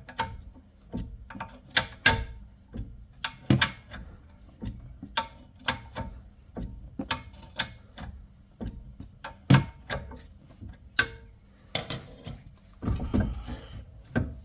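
Ratchet wrench clicking in irregular strokes, with sharp metal clicks and knocks, as a front brake caliper bolt is worked loose.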